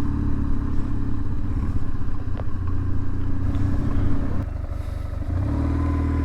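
BMW R1150GS Adventure's air-cooled boxer twin engine running steadily under the rider. The engine eases off about four seconds in, then picks up again about a second later.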